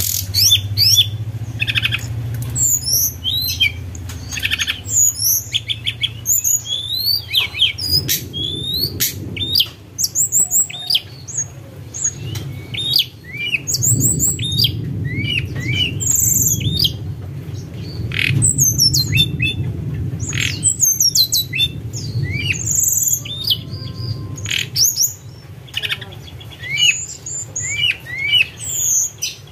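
Tledekan gunung singing: a rapid, continuous run of high-pitched chirps and short flute-like whistles, over a steady low rumble.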